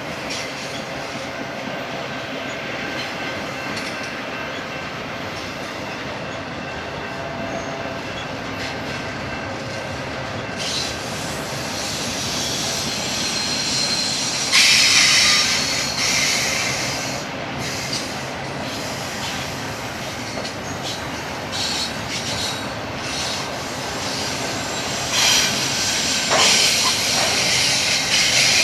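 BNSF freight train rolling past, steel wheels running on the rails with bouts of high-pitched wheel squeal. The loudest squeal starts about halfway through, and more comes near the end.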